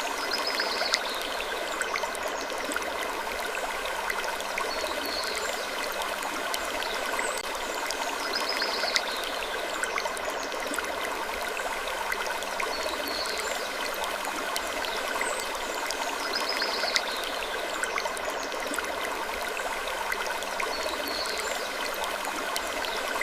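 Looped sleep ambience: a steady rushing hiss like flowing water, with short high creaks that glide downward, recurring every three to four seconds, and a few small ticks.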